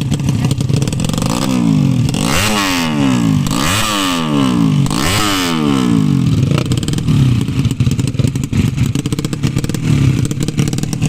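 Motorcycle engines running, with three rapid passes or revs between about 1.5 and 6 seconds where the engine pitch climbs and falls sharply, over a steady background of other bikes' engines.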